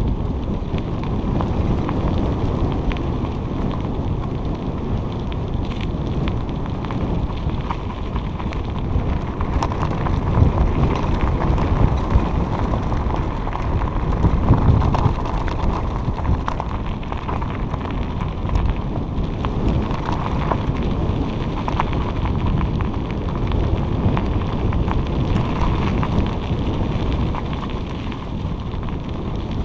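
Steady wind buffeting the microphone, mixed with the rumble and crackle of bicycle tyres rolling over a dirt trail.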